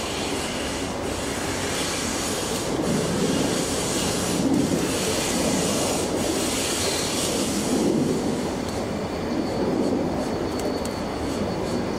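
A train running past on the rails: a continuous rumble with wheel squeal, and faint knocks coming roughly every second and a half to two seconds.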